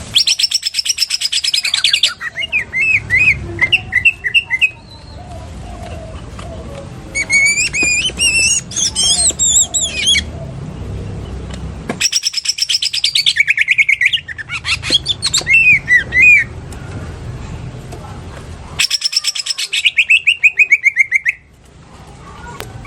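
Green leafbird (cucak ijo) singing in several bursts of very fast, rattling chatter that mimics a lovebird's long 'ngekek', with warbled, gliding whistles between the bursts.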